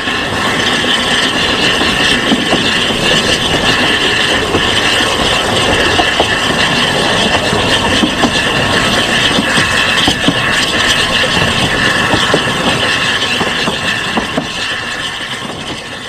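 A narrow-gauge steam train's carriage running along the track, heard from an open carriage window: a steady rush with many small clicks and knocks from the wheels on the rails and the coach's running gear. It fades near the end.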